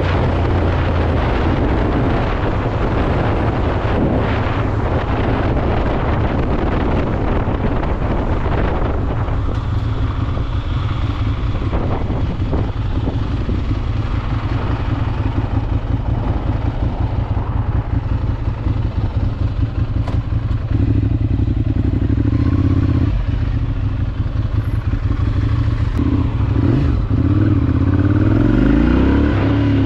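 Ducati Monster 796's air-cooled L-twin engine running as the motorcycle is ridden, with wind noise on the microphone through the first half. Near the end the engine note rises as the bike accelerates.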